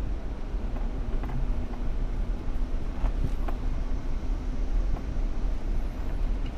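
Off-road vehicle's engine running steadily at low revs while it crawls along a trail. Occasional sharp knocks and rattles sound over it.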